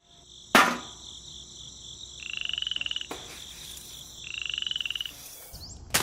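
Two frog calls, each a rapid pulsed croak about a second long, over a steady high insect drone, with a sharp knock shortly after the start and another near the end.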